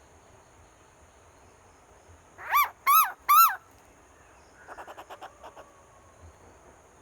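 Asian koel calling: three loud rising-and-falling notes in quick succession, each pitched a little higher than the last. A fainter rapid run of about eight short notes follows about a second later.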